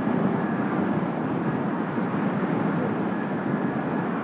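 Kawasaki T-4 jet aircraft running, a steady, even rush of jet engine noise with no sudden events.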